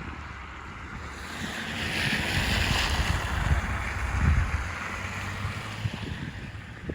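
Snowstorm wind buffeting the microphone with a low rumble, and a hissing rush that swells about a second in and fades again by about five seconds.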